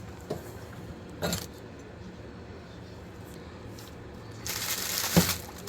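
Metal clinking and rattling from handling metal parts or tools: two light clicks early, then a longer jangling rattle that ends in a sharp knock near the end.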